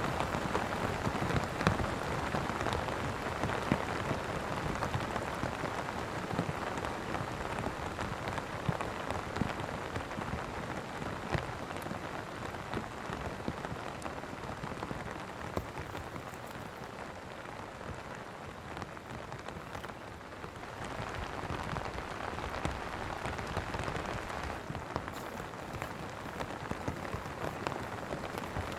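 Steady rain falling, a dense hiss with a patter of individual drops, easing slightly past the middle and picking up again.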